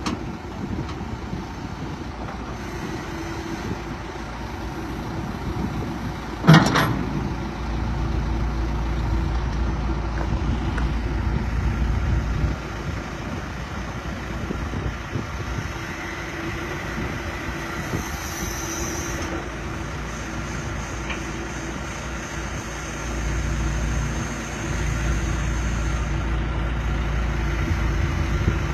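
John Deere 310G backhoe's diesel engine running, growing louder and deeper in two stretches of several seconds, with a single sharp clank about six and a half seconds in.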